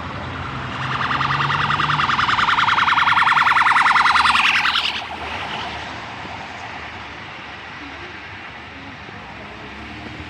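Electronic siren sounding loudly for about four seconds as a fast-pulsing tone, then falling away and cutting off about five seconds in, over street traffic noise.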